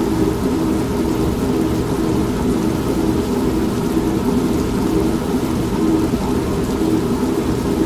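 Old manual washing machine running steadily, mixed with rain and a low, continuous rumble of thunder. Most of the sound is a steady low drone, with no sharp cracks.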